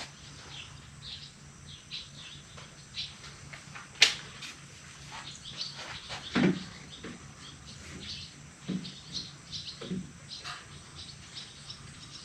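Scattered light clicks, taps and knocks of parts being handled inside a pickup truck's door, with one sharp click about four seconds in.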